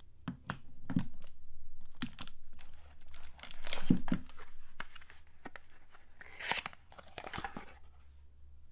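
Soap packaging being torn open and crinkled by hand: a run of sharp clicks and short tearing, rustling noises, loudest about four seconds in, then a longer stretch of crinkling.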